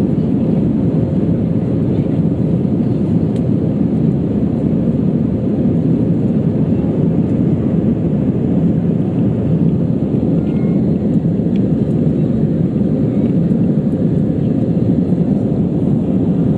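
Airliner's jet engines and airflow heard inside the passenger cabin as a loud, steady rumbling roar, with a faint steady hum on top.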